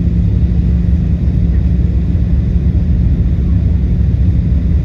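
Steady, loud low rumble of an airliner cabin in flight, engine and airflow noise with a constant low hum.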